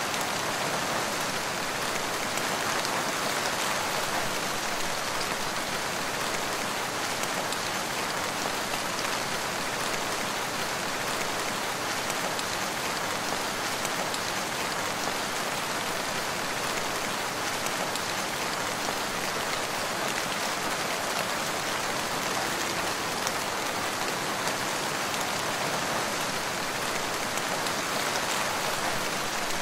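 Steady rain falling in a forest, an even hiss of rain with fine scattered drop patter.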